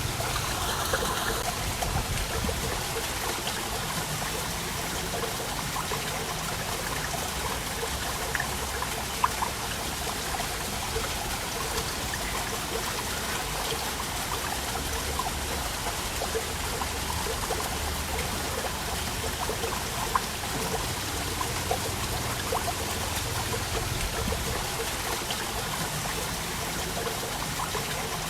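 Waterfall running steadily: a constant rush of water with small splashes and trickles through it.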